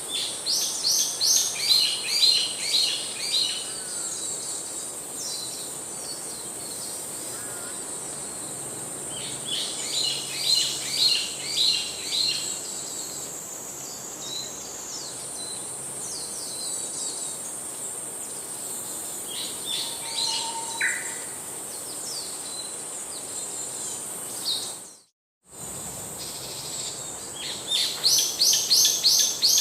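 A songbird singing in bursts of rapid repeated notes, a phrase every eight to ten seconds, over a steady high insect drone. The sound cuts out completely for a moment about 25 seconds in.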